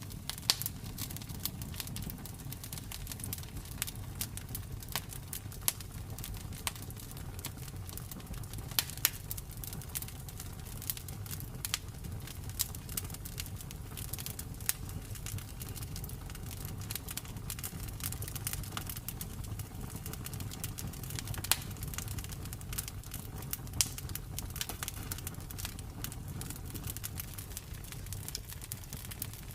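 Campfire burning: irregular sharp crackles and pops from the burning wood, a few louder snaps among them, over a low steady rumble.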